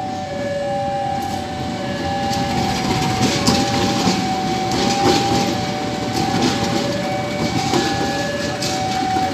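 Railway level-crossing warning alarm sounding, alternating steadily between two tones. Under it a train rumbles past, with the clicking of its wheels over the rail joints.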